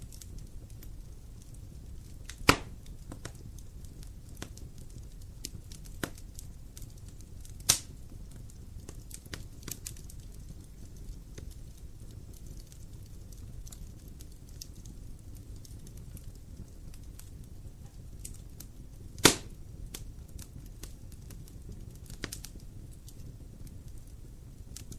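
Wood fire burning with a low steady rumble and scattered small crackles, broken by three loud, sharp pops of burning wood spread through the stretch.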